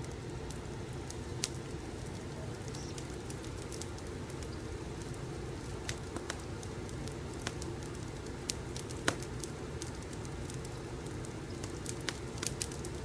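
Wood fire crackling in a fireplace: a steady low rumble of burning with irregular sharp pops and snaps, the loudest one about nine seconds in.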